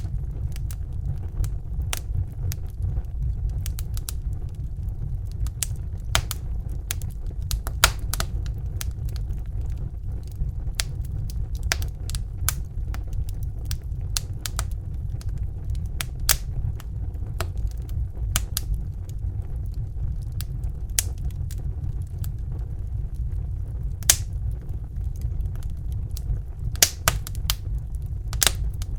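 Crackling fire: irregular sharp pops and snaps, a few louder than the rest, over a steady low rumble.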